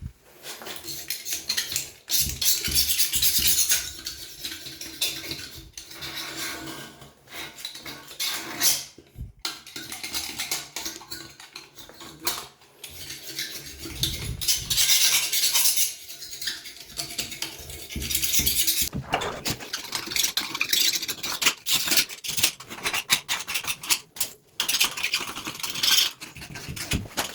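Hand tools at work on a toilet: repeated scraping in bursts, with clinks and knocks against hard surfaces between them.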